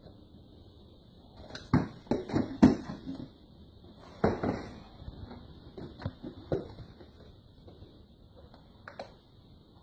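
Knocks and clinks of food containers and utensils being handled: a quick run of sharp knocks about two seconds in, then scattered single knocks.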